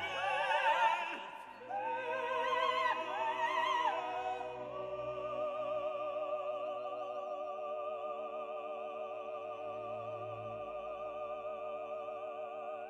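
Background music: operatic singing with strong vibrato over an accompaniment, moving through several notes and then holding one long note for most of the second half.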